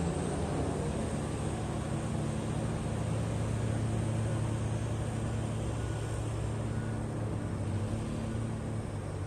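Large diesel engine of heavy mine equipment running steadily, a constant low hum that eases slightly near the end.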